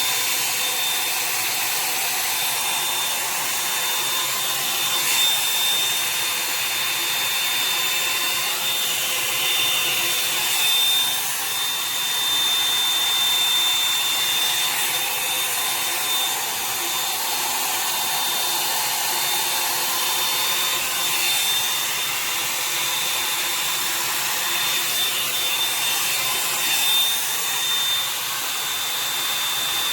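Revlon One-Step hair dryer brush running steadily, a continuous blower hiss with a steady high whine and small swells in level as it is worked through wet hair.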